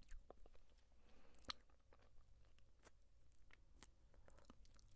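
Close-miked gum chewing: faint, irregular wet clicks and smacks of the mouth, with one sharper click about a second and a half in.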